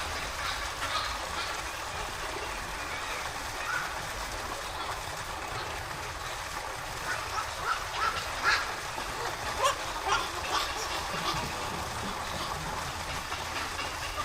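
Short, sharp bird calls, several in quick succession through the middle, over a steady background hum.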